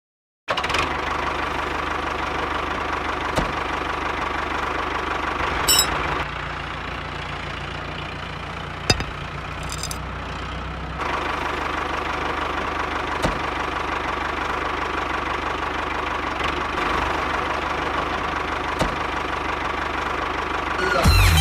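Tractor engine running steadily, with a few sharp clicks over it.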